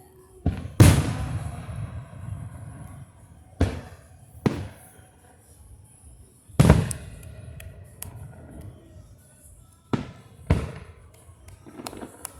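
Fireworks bursting overhead: about seven sharp bangs, some in quick pairs, each followed by a rumbling, crackling tail. The loudest comes about a second in.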